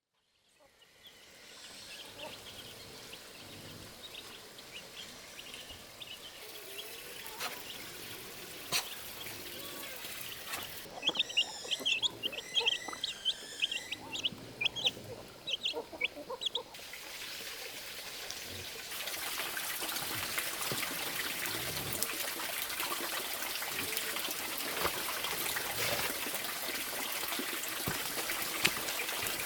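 Bird calls: quick high chirps in a rapid series about a third of the way in. From about two-thirds of the way in, a steady trickle and pour of running water that gets louder.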